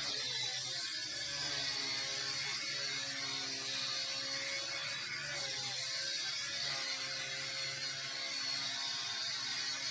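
XK K110 micro RC helicopter flying: a steady whine from its motor and rotor, with the pitch wavering slightly near the middle.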